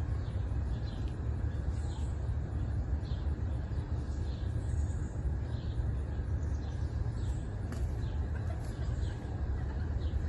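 Short high chirps repeating every half second to a second, like a small bird calling, over a steady low rumble.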